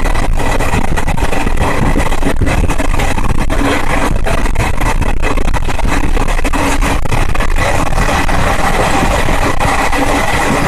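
Express passenger train running at speed, heard from on board: a loud, steady rumble and rush.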